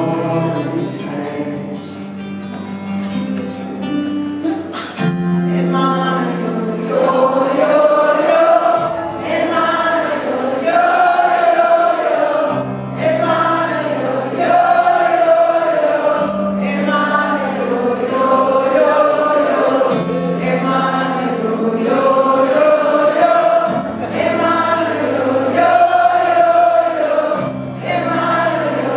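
Live concert music: a wordless sung chant from a group of voices, over low held bass notes that change every few seconds.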